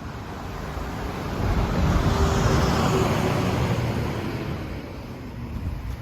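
A road vehicle passing by: its noise swells to a peak about two to three seconds in and then fades away.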